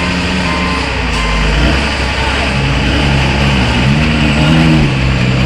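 Heavy truck's diesel engine running loud, its pitch rising and wavering about halfway through. A reversing beeper sounds in short repeated beeps during the first second or so.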